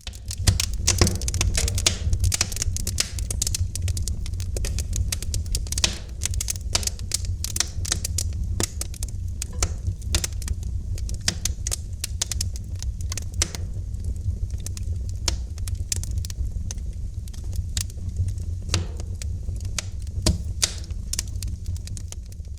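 Wood fire crackling in a fireplace: a dense, irregular run of sharp pops and snaps over a steady low rumble of the flames.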